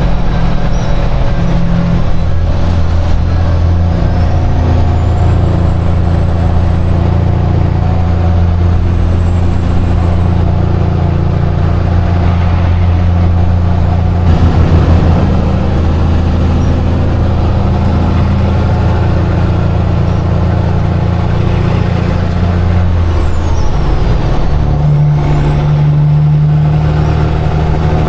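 Peterbilt semi truck's diesel engine running at highway speed, heard from inside the cab, with a faint high whistle that wanders up and down in pitch. The engine note changes about halfway through and again near the end.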